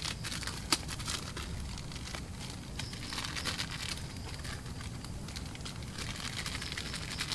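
Cooking fire crackling steadily under a frying pan, full of small pops, with one sharp pop just under a second in.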